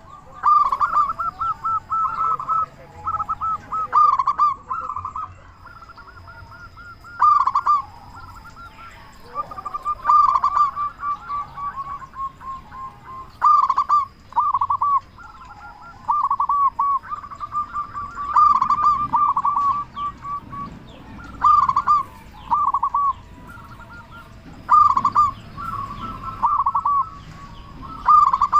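Zebra dove (perkutut) cooing: loud rolling phrases of quick pulsed notes, repeated every few seconds with short pauses between. A faint steady high tone runs underneath.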